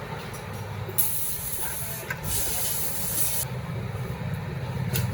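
Pressurised spray hissing in two bursts of about a second each, over a steady low mechanical rumble.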